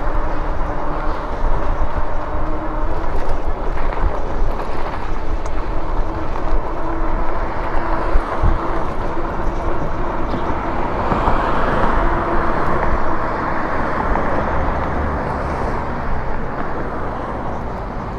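Wind buffeting the microphone and road noise while riding an electric bike, with a faint steady hum underneath; the rushing grows a little louder in the middle.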